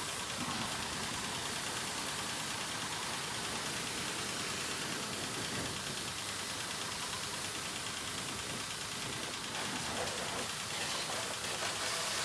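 Water spraying onto a motorcycle during a wash: a steady, even hiss.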